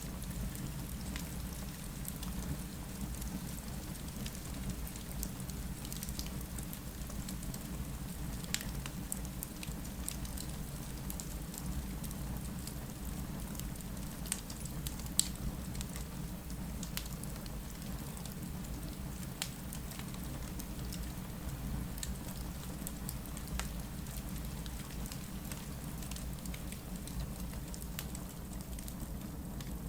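Steady rain ambience mixed with a fireplace crackling, with a steady low rumble underneath and occasional sharp pops from the fire.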